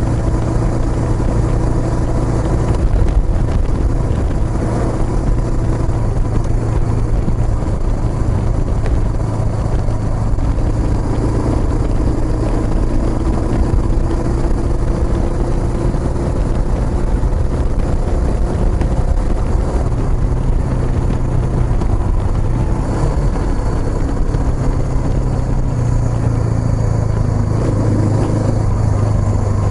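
Exhaust of a Kawasaki Estrella's single-cylinder engine through a Yamato aftermarket muffler, running steadily while the bike is ridden, with small changes in engine speed.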